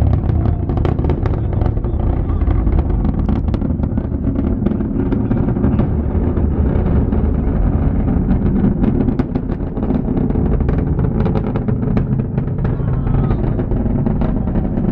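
Falcon 9 rocket engines heard from the viewing area during ascent: a loud, steady low rumble shot through with sharp crackles.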